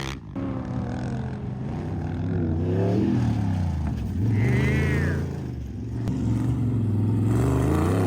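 Off-road vehicle engines running on the dunes, revving, with the pitch rising and falling several times. A brief high whine rises and falls about four seconds in.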